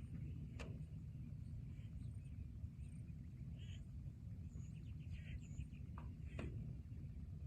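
Forest ambience: small birds chirping here and there over a steady low rumble, with two sharp clicks, one about half a second in and one near the end.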